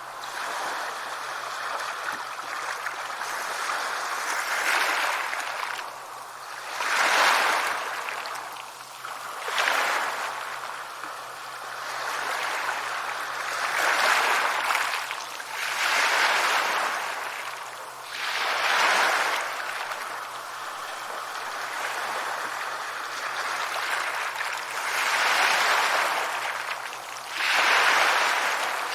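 Sea waves breaking and washing up a shore, the surf rising and falling in repeated swells a few seconds apart.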